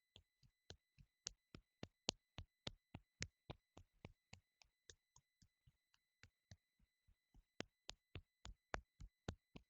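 Faint, rhythmic slaps of a flat palm patting along the arm in qigong self-tapping, about three or four pats a second. They soften in the middle and grow stronger again near the end.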